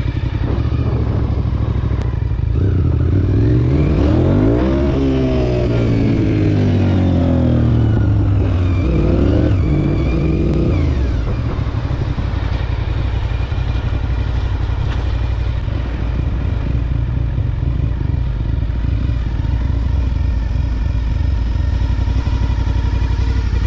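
Motorcycle engine running steadily, its pitch rising and falling a couple of times in the first half as the revs change, then holding steady.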